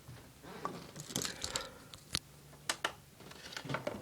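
Lego pieces and minifigures being handled: a string of small plastic clicks, knocks and brief scrapes at irregular intervals.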